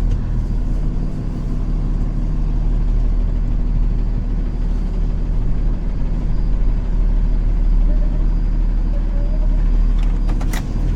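Semi truck's diesel engine running steadily while the truck is maneuvered into position, with a few sharp clicks about ten seconds in.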